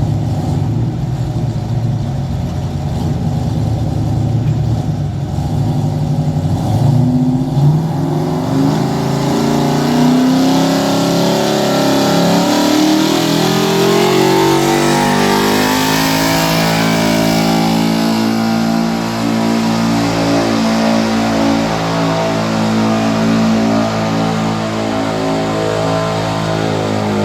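Pulling truck's engine at full throttle while it drags a weight-transfer sled down a truck-pull track. The revs climb over the first several seconds, then hold high and fairly steady for the rest of the run.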